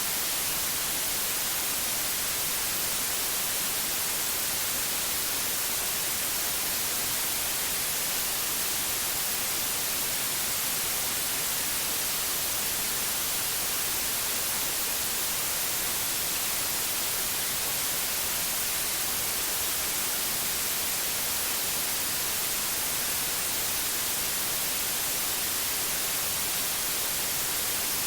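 Steady electronically generated white noise: an even hiss, strongest in the treble, with no change in level.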